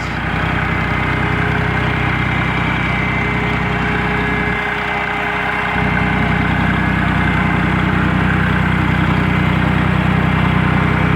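The three-cylinder gas engine of a 1970 Ford 4400 tractor idling steadily, running a little louder from about six seconds in.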